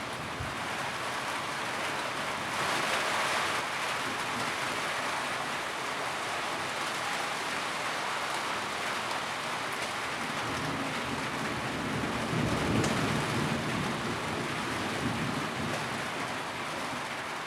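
Steady rain drumming on a tin roof, a dense, even patter. It briefly grows heavier a few seconds in, and a low rumble swells and fades in the second half.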